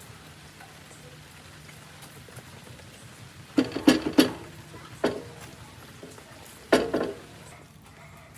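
Several sharp knocks: three in quick succession a little over three seconds in, another about a second later, and one more near the end, over a faint steady low hum.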